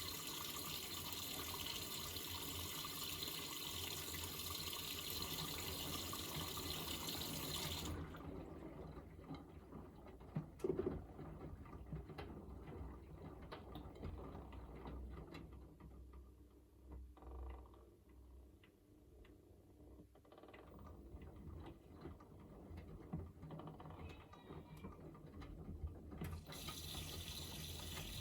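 Miele W3985 washing machine filling with water for its final rinse with softener: a steady rush of water that cuts off about eight seconds in, leaving the drum's low rumble, sloshing water and light clicks, then the water inflow starts again near the end.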